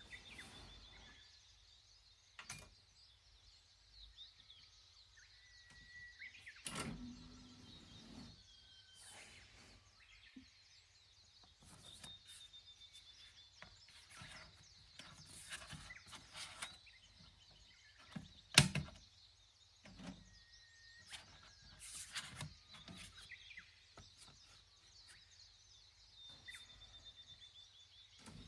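Faint birdsong with short chirps and trills, over scattered soft knocks and clicks, with one sharp click about two-thirds of the way through standing out as the loudest.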